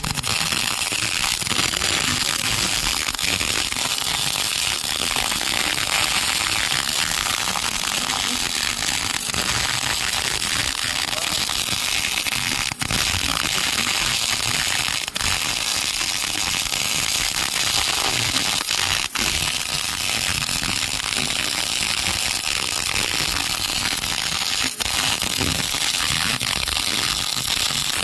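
MIG welding arc crackling and sputtering steadily as the wire feeds into the weld. The arc breaks off for an instant four times.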